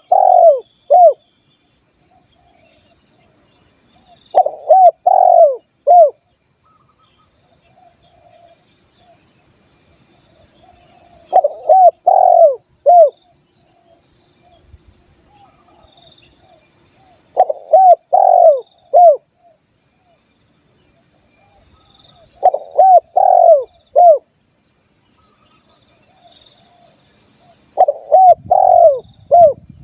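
Spotted dove cooing: a phrase of three or four coos, repeated about every five to six seconds, six times in all. Under it runs a steady high insect drone.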